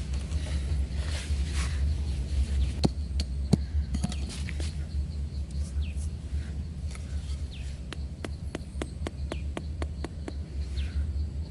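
Short bird chirps, among scattered clicks and taps with a quick run of them near the end, over a steady low rumble.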